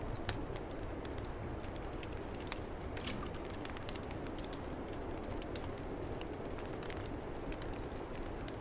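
Wood fire crackling in a fireplace, with scattered sharp pops, over a steady low rush of snowstorm wind.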